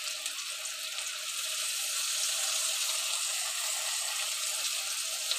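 Potatoes and brinjal sizzling in hot mustard oil in a kadhai, a steady high hiss.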